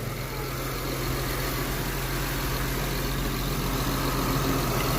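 2007 Honda Accord's 3.0-litre V6 idling with a steady, even hum, running smoothly and free of any noise after its knock sensor and wiring harness were replaced.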